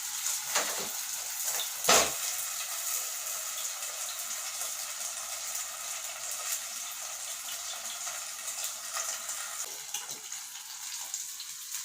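Chicken kebab pieces shallow-frying in oil in a lidded pan on low heat: a steady sizzle, with a single sharp click about two seconds in.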